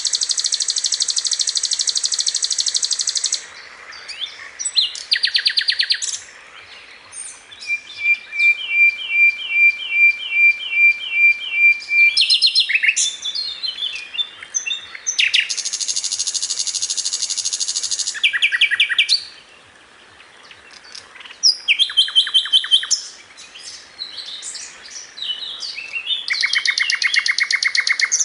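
A sikatan londo (flycatcher) singing loudly and continuously: long high buzzy trills, a run of about a dozen evenly repeated notes in the middle, and quick chattering phrases between short pauses.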